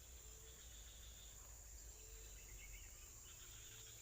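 Near silence outdoors: a faint steady high insect drone, with a few faint bird chirps.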